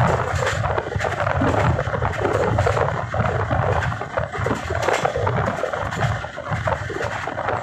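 A train running at speed over a bridge: a steady rumble of wheels on rails with irregular clattering.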